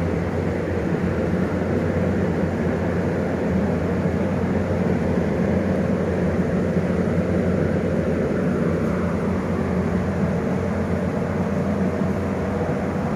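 Arc welding of a corner joint: a steady hissing buzz with a low hum underneath, running evenly without breaks.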